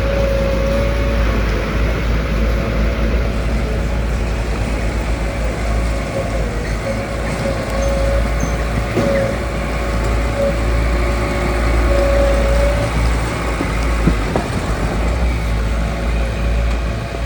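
Heavy diesel earthmoving machinery running steadily: a low engine rumble with a thin steady whine on top, and one sharp knock about fourteen seconds in.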